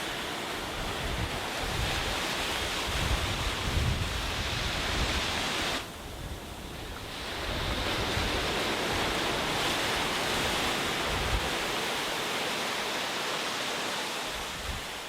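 Sea waves washing onto a beach in two long surges, with a short lull about six seconds in, and some wind rumbling on the microphone in the first half.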